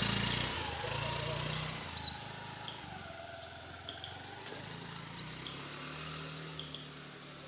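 A motor vehicle's engine running and pulling away, its sound fading steadily as it goes off into the distance, with small birds chirping now and then.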